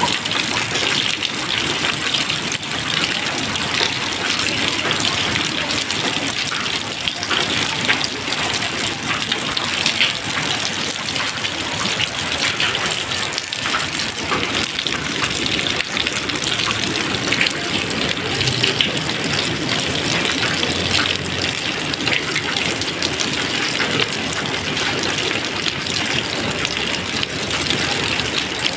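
Steady rain: an even hiss of falling water dotted with many small drop hits, with no thunder.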